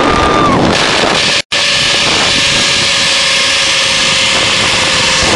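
Wind rushing over the microphone during a high-speed zipline ride: a loud, steady rush with a faint steady whine under it. The sound cuts out for a moment about a second and a half in.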